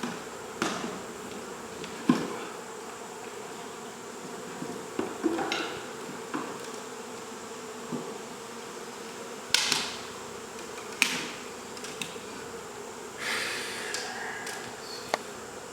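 A mass of honey bees buzzing steadily around an opened wall cavity, with several sharp knocks and a short scrape from tools working the comb.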